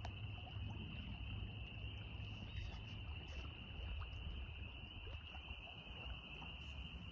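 Evening chorus of many frogs calling together, a steady unbroken high trill over a low rumble.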